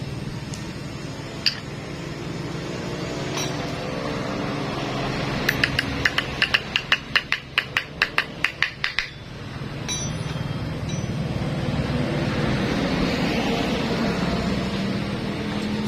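Hand tool working on the motorcycle engine: a quick run of sharp metallic clicks, about four a second for some three seconds, over a steady background hum.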